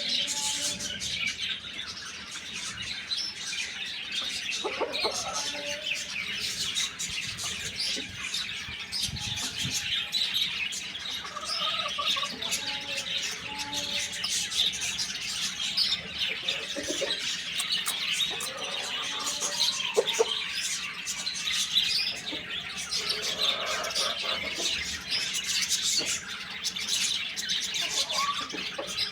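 A dense, continuous chorus of small birds chirping, with a few lower, shorter calls from larger birds now and then.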